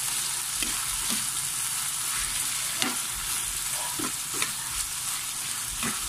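Corned beef and diced potatoes sizzling in a pan with a steady hiss while a metal spatula stirs them, scraping the pan in several short, irregular strokes.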